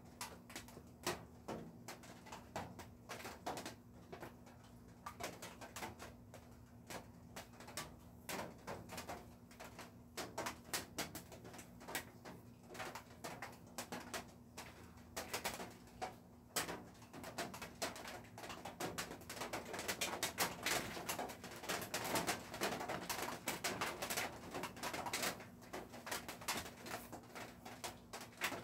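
Pet birds stirring, making a dense, irregular run of small clicks and scratches that gets busier in the second half, over a low steady hum.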